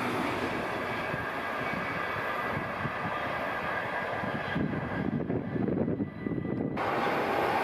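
NS intercity train of single-deck coaches rolling past and away, a steady rumble and rush of wheels on rail with a faint steady whine. About five seconds in, the sound turns dull and gusty for a couple of seconds.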